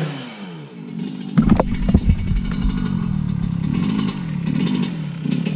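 Dirt bike engine dropping in pitch as it slows, then running loud and close from about a second and a half in, with small blips of the throttle.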